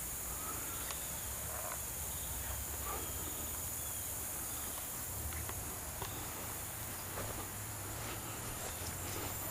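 Steady high-pitched chirring of crickets, with a low rumble underneath and a few faint ticks.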